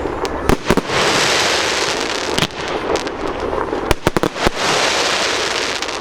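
Fireworks display going off: sharp bangs over a continuous hissing crackle, with quick clusters of reports in the first second and again at about four seconds.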